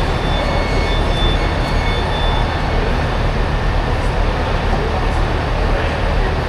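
A train at the platform, its engine running with a steady low drone under a broad noise. A faint, thin high squeal sounds over it for the first couple of seconds.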